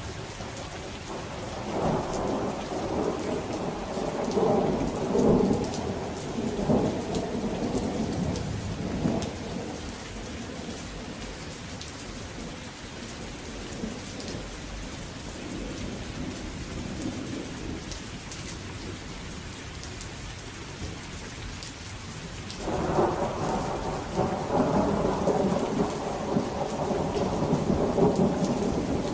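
Steady rain with rolling thunder. A long rumble of thunder runs from about two seconds in to about nine, a fainter one comes in the middle, and a loud peal starts suddenly near the end and keeps rumbling.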